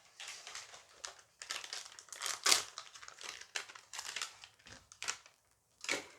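Foil booster pack crinkling as it is handled and torn open: a busy run of crackling rustles, with one more sharp crinkle near the end.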